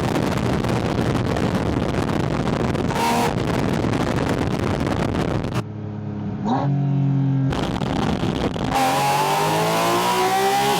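Porsche 718 Spyder RS's 4.0-litre flat-six heard at its air intake under heavy rushing wind noise. The sound drops off a little past halfway, then the revs climb steadily near the end as the car accelerates.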